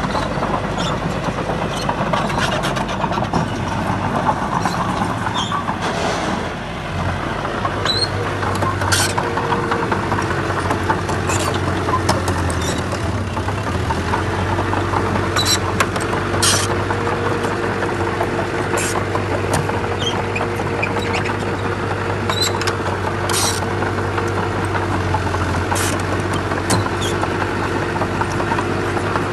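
Diesel engine of heavy earthmoving equipment running steadily under work, with frequent short sharp clanks and knocks over it.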